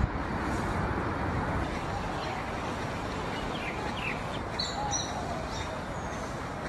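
Small birds chirping briefly several times over a steady background noise, with most chirps in the second half.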